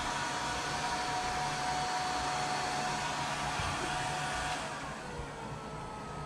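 Hair dryer running steadily with a whining tone, blowing a cat's wet fur dry after a bath. About three-quarters of the way in it turns a little quieter and duller and the whine stops.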